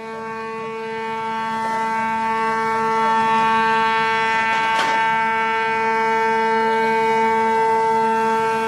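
A ship's horn sounding one long, steady blast at a constant pitch, swelling over the first few seconds and then holding. A brief click cuts through it about five seconds in.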